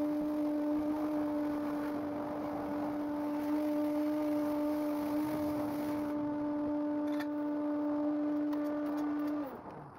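Mark VII AquaSpray car wash machine running: a steady motor hum over a hiss of water spray. The hiss thins about six seconds in, and near the end the motor shuts off, its hum sliding down in pitch as it winds down.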